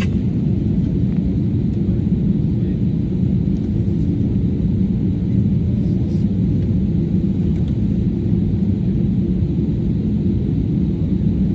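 Steady low rumble inside the cabin of an Airbus A320 on the ground before takeoff: the aircraft's air-conditioning and engine noise, level throughout.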